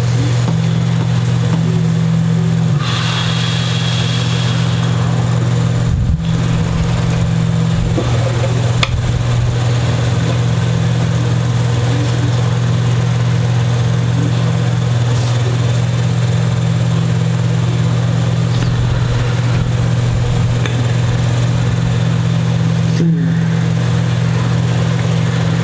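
A steady, loud low hum with no change in pitch, and a brief faint scratchy noise about three seconds in.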